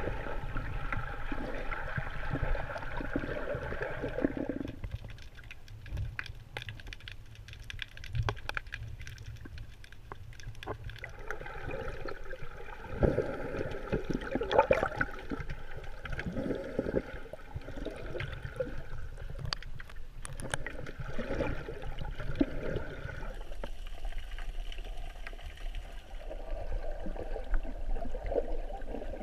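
Water heard through a camera held underwater: muffled sloshing and gurgling with scattered clicks and pops, a few louder splashes about midway, and the texture changing abruptly a few times.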